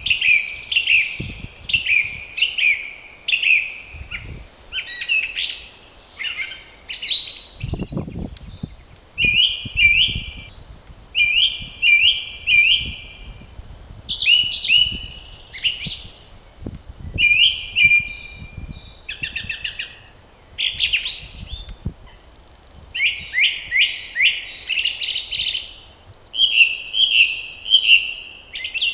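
Spring songbirds singing, several short high-pitched phrases repeated one after another with barely a gap, from more than one bird. Gusts of wind rumble low underneath now and then.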